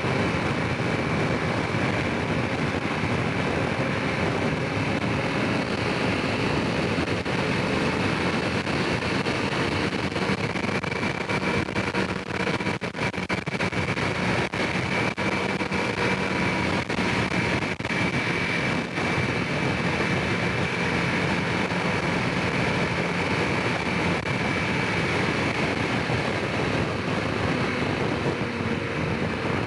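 Honda Rincon 650 ATV's single-cylinder engine running steadily while riding, with a steady high whine above the engine note. Brief dips and knocks come through in the middle.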